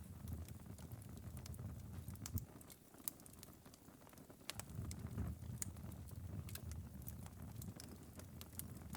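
Wood fire burned down to a glowing ember bed, crackling with scattered sharp pops and ticks over a low rumble; the rumble eases for a couple of seconds near the middle.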